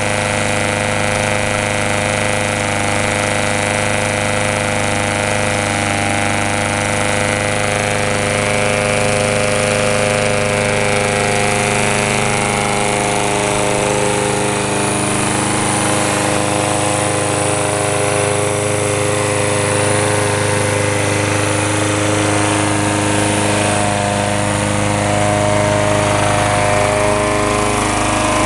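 Mountfield SP470 lawn mower's Briggs & Stratton Classic single-cylinder side-valve four-stroke engine running steadily at a constant speed.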